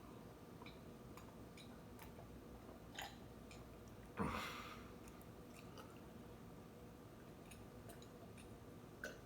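A person chewing an Oreo cookie, faint, with small mouth clicks scattered through. One louder, brief noise comes about four seconds in and fades over half a second.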